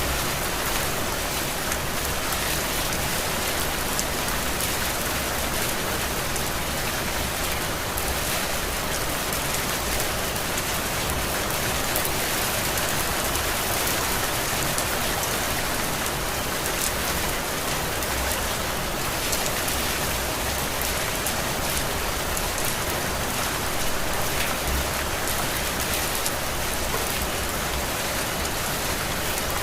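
Heavy rain falling steadily: an even, dense hiss dotted with small drop ticks.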